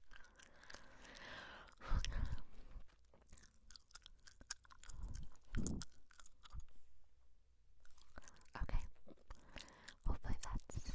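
Gum chewed close to the microphone: irregular wet smacking and clicking bites, coming in uneven clusters with short pauses.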